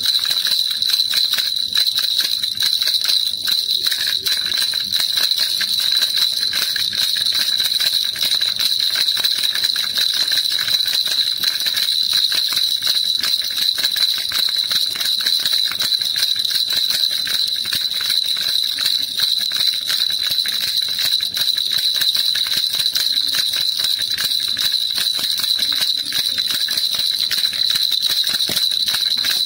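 Baby rattle shaken continuously, an even, fast jingling that never pauses.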